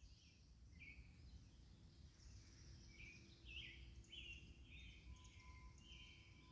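Faint birdsong: a string of short, high chirping notes over a low, steady rumble.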